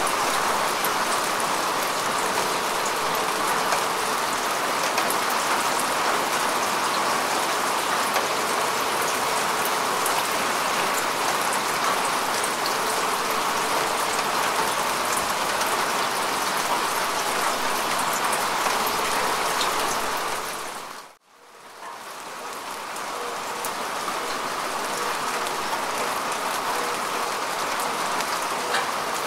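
Steady rain falling on grass and earth, a dense patter of drops. About two-thirds of the way through it fades out almost to silence and swells back in over a second or two.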